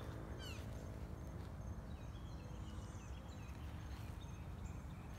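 Birds calling: a couple of quick downward-sweeping chirps in the first second, then faint short high notes repeating, over a low steady rumble.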